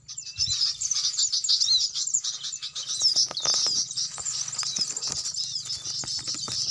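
Dense, rapid twittering of small birds: many high chirps and quick up-and-down whistles overlapping without pause, starting abruptly, with a few clicks mixed in.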